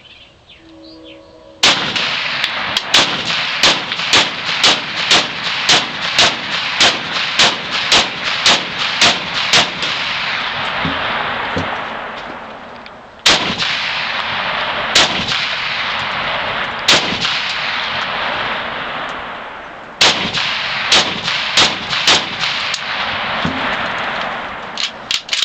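Norinco SKS semi-automatic rifle firing 7.62x39 low-recoil training rounds as fast as the trigger is pulled: a rapid string of about two shots a second for some eight seconds, a pause, then slower single shots, each shot trailing a long echo. The rifle is cycling each round with this reduced-power ammunition.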